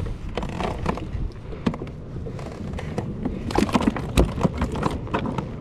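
Irregular clicks and knocks of handling noise, with a louder thump about four seconds in, over a low rumble of wind on the microphone.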